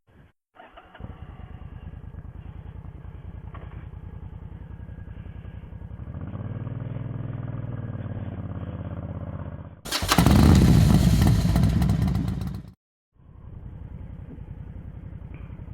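Motorcycle engine running at idle with a fast, even pulse, its pitch rising and falling once as it is revved midway. Then there is a much louder, rushing noise for about three seconds, which cuts off suddenly before the idle comes back.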